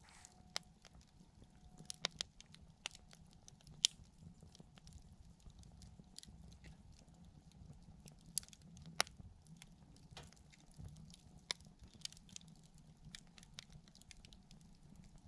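Wood fire crackling: irregular sharp pops and snaps from burning wood, a few louder ones standing out, over a faint low hiss of the flames.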